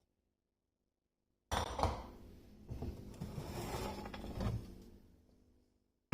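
Kitchen handling noises: a sudden sliding clatter, then a few seconds of soft knocks and rustles of things being moved about, ending in a sharp knock.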